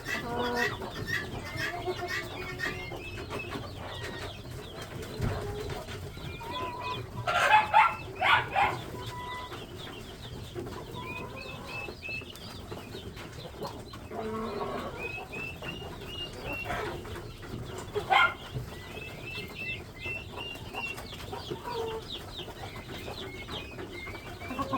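A group of chickens peeping and chirping in many short, high notes, with a few louder calls about seven to eight and a half seconds in and again near eighteen seconds.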